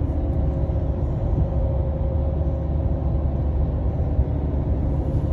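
A steady low rumble with a faint hum, even throughout.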